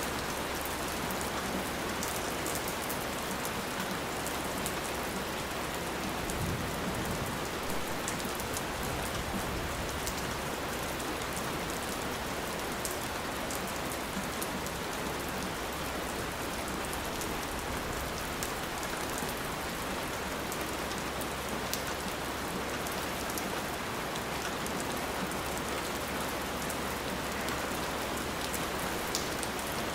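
Steady rain falling on a surface, a constant hiss with many small drops ticking through it.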